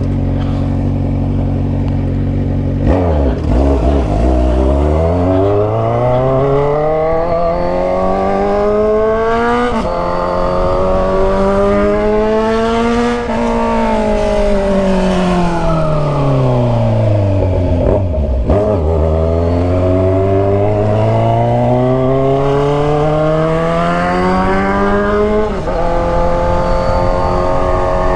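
Kawasaki Z900RS inline-four through a stainless 4-into-1 Atalla header and slip-on muffler, being ridden hard. The revs climb in long steady rises, each cut by a quick drop at a gear change, and fall away in one long slow glide through the middle as the throttle is closed.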